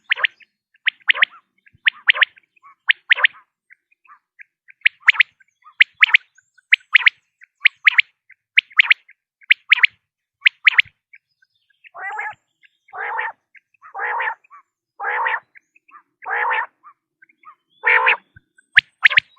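Common quail calling repeatedly. There are quick, sharp, high call notes, mostly in twos and threes. About twelve seconds in these give way to a run of six longer, lower, rougher calls, about one a second, and the sharp notes come back near the end.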